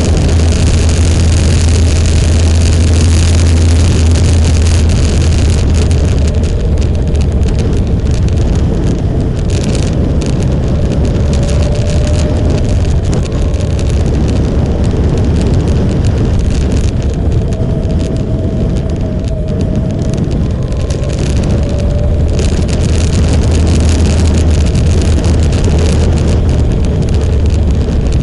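Motorcycle engine running steadily under way, with a deep hum and a note that wavers slightly as the throttle changes, mixed with wind and road rush on the microphone.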